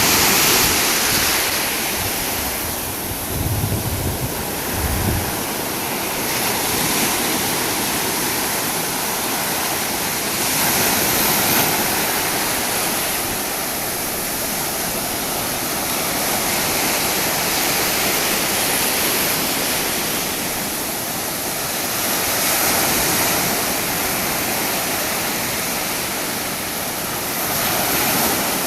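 Sea surf breaking and washing on the shore: a steady rushing that swells and ebbs every few seconds. A short low rumble of wind on the microphone a few seconds in.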